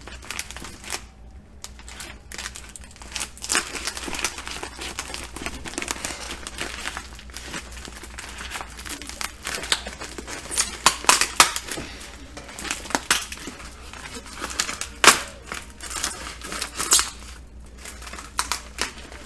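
Shipping packaging being opened and handled, crinkling and tearing in irregular bursts, with louder rustles about halfway through and near the end.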